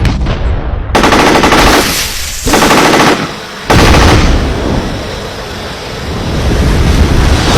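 Rapid automatic gunfire from a drone-mounted machine gun in two short bursts, then a sudden loud roar of noise that eases off and builds again.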